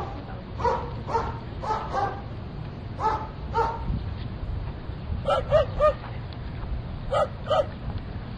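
Dog barking in short, sharp barks: a run of separate barks, then three quick barks about five seconds in and two more shortly after.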